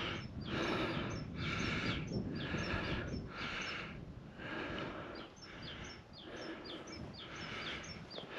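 Steady walking footsteps, about one and a half steps a second, with small birds chirping and wind rumbling on the microphone.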